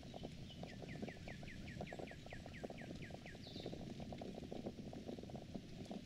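A bird sings a run of about a dozen quick down-slurred notes, about four a second, followed by one short higher note. Underneath, a dense low crackling runs throughout.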